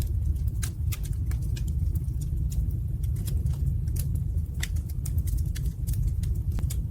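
Wood fire burning in a fireplace: frequent, irregular sharp crackles and pops over a steady low rumble from the flames.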